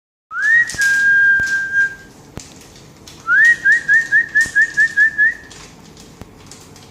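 A person whistling to call cats. The first note rises and is held for about a second and a half. After a short pause a second rising note breaks into a quick run of about nine short chirps.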